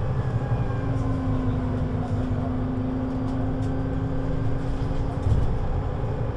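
Scania CN320UA 6x2/2 articulated bus running under way: a steady low engine rumble with a constant whine over it, and a brief louder knock about five seconds in.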